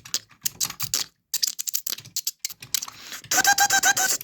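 Quick, irregular clicking and tapping of plastic toy parts being handled. Near the end comes a run of about six short, evenly spaced high-pitched notes.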